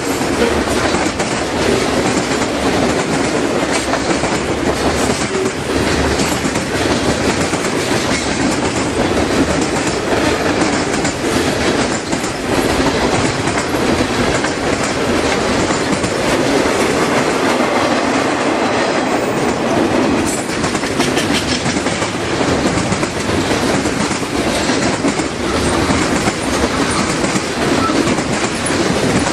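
Freight train cars rolling past at speed, a steady loud rumble of wheels on rail with continual clickety-clack from the wheels crossing rail joints.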